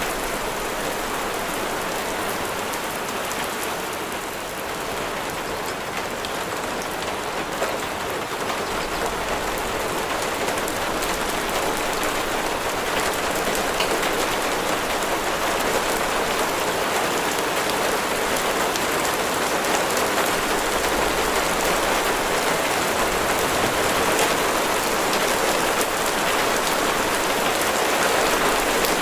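Steady rain falling on a hard surface, a dense patter of drops that grows a little louder over the first half.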